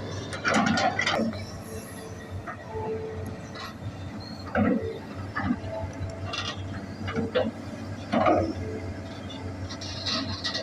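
Hitachi hydraulic excavator's diesel engine running steadily, with irregular metallic clanks and knocks from the machine.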